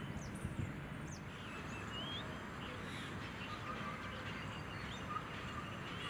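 Short, high bird chirps and a few rising call notes here and there, over steady outdoor background noise.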